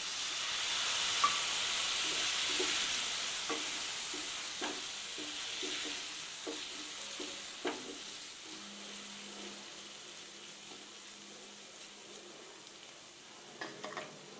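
Baby potatoes sizzling in hot oil in a frying pan just after a splash of water is added, the sizzle loudest at first and slowly dying down as the water boils off. In the middle a spatula knocks and scrapes in the pan a number of times as the potatoes are stirred.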